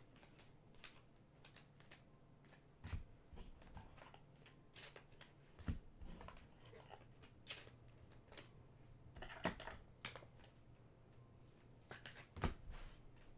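Faint handling of trading cards and packs: scattered short slides, rustles and light clicks of card stock.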